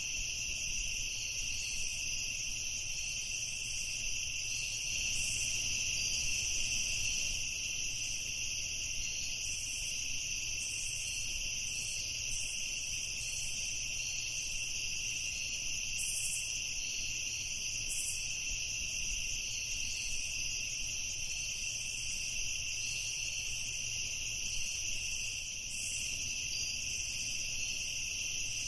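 Night chorus of crickets: a continuous, even, high-pitched trilling, with fainter irregular chirps above it.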